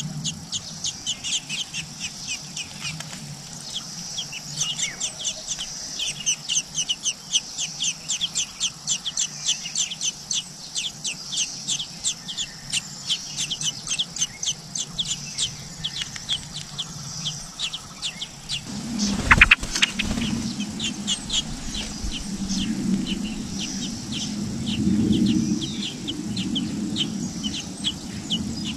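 Birds chirping continually: short, high chirps, several a second. About two-thirds of the way through comes one loud knock, and a low hum sits beneath the chirping from then on.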